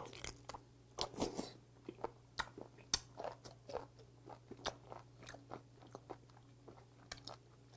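A person chewing raw, still-live webfoot octopus: wet chewing and smacking mouth sounds, an irregular run of short clicks.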